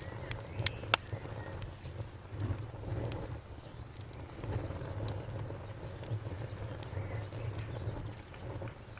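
Campfire burning, with sharp crackles and pops in the first second over a steady low rumble of the flames. A cricket chirps in a fast, even pulse, about four chirps a second.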